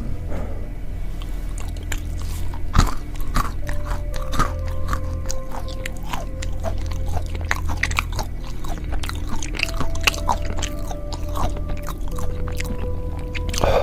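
Close-up crunching and chewing of extra-spicy peanuts, many sharp crunches in an irregular run, over background music with steady held notes.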